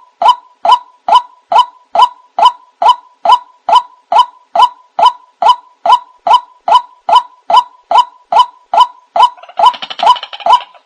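White-breasted waterhen (ruak-ruak) lure call: a single loud croaking note, repeated evenly about two and a half times a second. Near the end a second, more chattering run of calls overlaps it for about a second.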